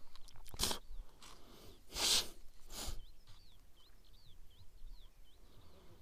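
Three short bursts of rustling noise in the first three seconds, then a small bird calling a repeated short chirp, about two notes a second.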